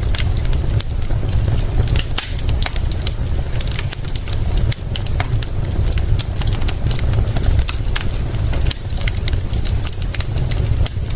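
Crackling fire with frequent sharp pops and snaps, over a steady low rumble and an even hiss of rain.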